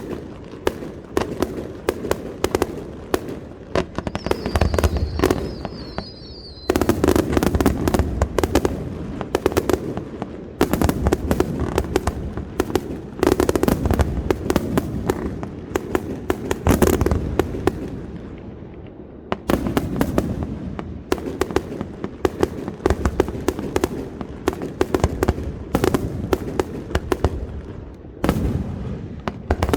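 Aerial fireworks display: shells bursting in a dense, rapid string of cracks and bangs with deep booms underneath, and a warbling whistle from about four to six seconds in.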